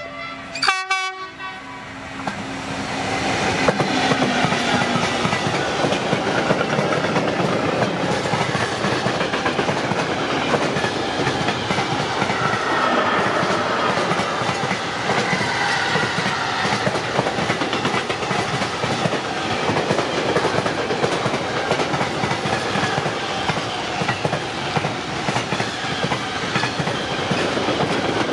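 Train sounding a short horn blast about a second in, then passing close by with a loud, steady noise of wheels on rails that lasts to the end.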